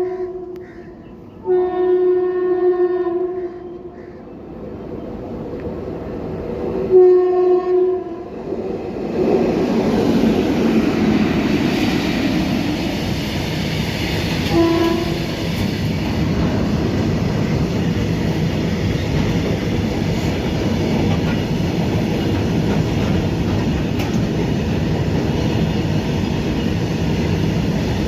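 Horn of two Indian Railways WAG-7 electric locomotives hauling a goods train: three blasts in the first eight seconds, the middle one about two seconds long. Then the train passes with a steady rumble and rail clatter, with one short toot partway through.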